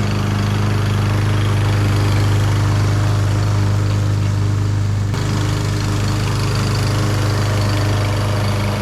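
Troy-Bilt TB230 walk-behind mower's Briggs & Stratton engine running steadily under load while cutting thick Zoysia grass.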